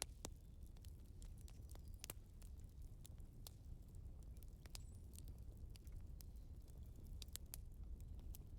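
Wood fire crackling faintly: irregular sharp pops and snaps over a low, steady rumble.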